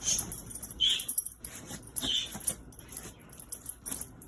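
A pet dog giving two short high whines, about a second in and again about two seconds in, among quick jingling clicks like a collar tag.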